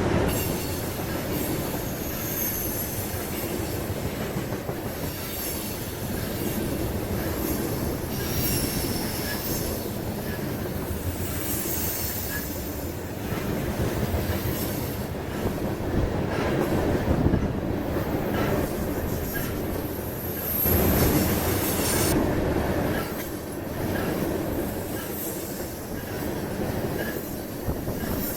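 Freight train rolling past, a steady rumble and rattle of cars on the rails, with high wheel-flange squeals coming and going.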